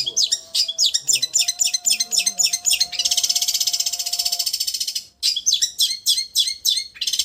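Long-tailed shrike (cendet) song: quick runs of sharp, high chirps alternating with a rapid, even, trembling trill, broken by a short gap about five seconds in.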